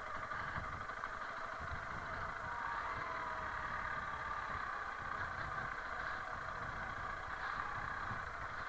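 Honda CRF300L Rally's single-cylinder four-stroke engine running steadily, with no marked revving or sudden knocks.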